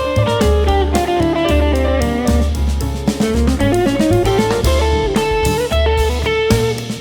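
Instrumental passage of a recorded song without singing: a guitar plays a melodic solo line over bass and drum kit.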